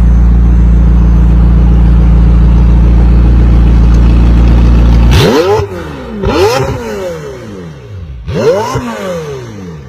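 Stunt-show car engines: a loud, steady engine drone for the first five seconds or so, then the engine is blipped three or four times, each rev rising and falling in pitch.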